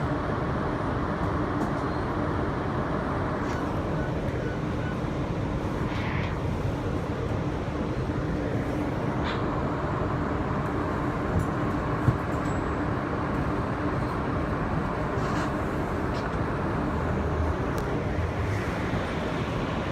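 Steady rumble and hiss inside an R160B Siemens subway car, with a faint constant hum and a few light clicks and knocks.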